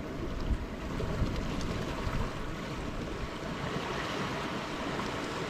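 Wind buffeting the microphone over the steady wash of sea surf against rocks, a low rumble under an even hiss.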